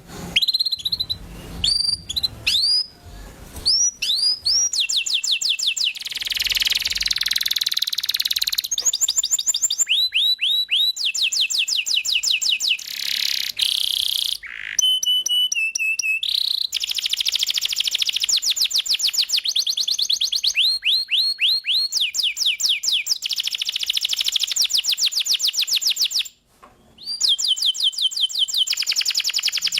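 Canary singing a continuous, vigorous song made of rapid trills: runs of the same short chirping note repeated many times a second, switching from one note type to the next, with one brief pause near the end.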